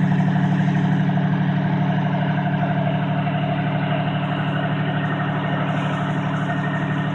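Heavy engine idling steadily, a deep hum with a regular pulse of about five beats a second.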